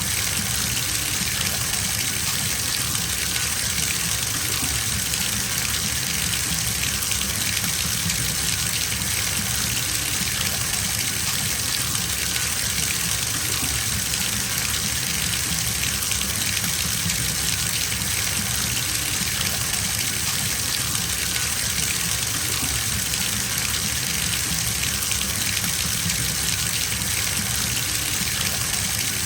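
Bathtub tap running steadily into the tub as it fills, an even rush of falling water.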